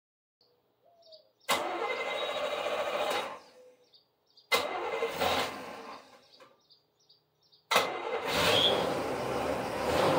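1976 Corvette's 350 V8 being started. It fires and dies away twice, then catches on the third try about eight seconds in and keeps running.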